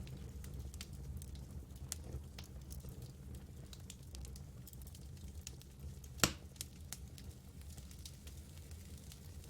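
Campfire burning with a steady low rumble of flames and scattered small crackles, with one loud sharp pop about six seconds in.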